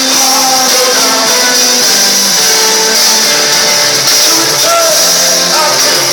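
Live rock band playing in concert, recorded from the audience: poor, thin sound with no deep bass and a hissy top.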